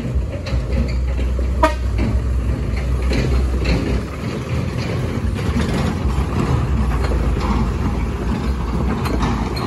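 Toyota Dyna truck's engine running with a steady deep rumble, and a short high tone about two seconds in.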